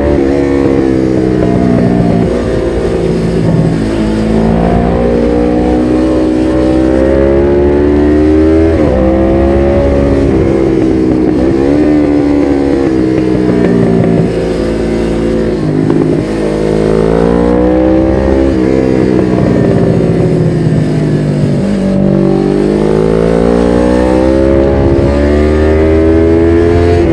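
Suzuki GS500E's air-cooled parallel-twin engine running through a Takkoni slip-on exhaust while riding. The engine pitch climbs and drops over and over as the rider opens and closes the throttle.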